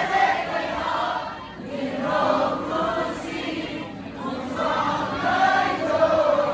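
A concert crowd singing a song together in unison, in phrases with short breaks between them.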